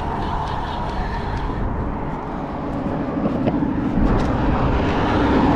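Wind buffeting the microphone: a steady low rumble and hiss that grows louder about four seconds in, with a few faint clicks.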